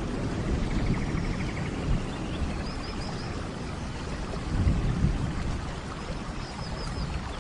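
Steady rain with a low rumble of thunder that swells about four to five seconds in.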